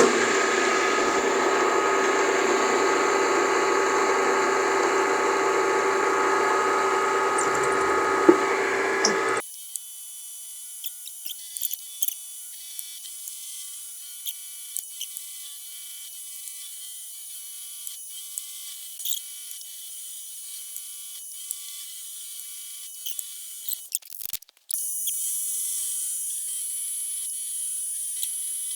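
Milling machine spindle spinning fast with a small 3/16-inch cutter slotting 304 stainless steel, a steady whine with several tones. After about nine seconds the sound drops abruptly to a faint high hiss with scattered small ticks, and it changes abruptly again near the end.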